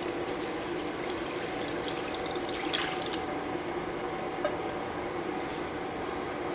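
Broth thickened with a flour slurry being poured into a hot enameled cast-iron skillet of softened vegetables: a steady rush of pouring, bubbling liquid.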